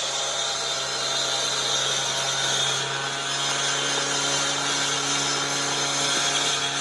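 Power saw running steadily while cutting concrete, a constant motor hum under a dense grinding hiss.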